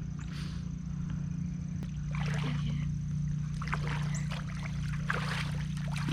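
Creek water sloshing and splashing in several bursts as someone wades through it, over a steady low hum.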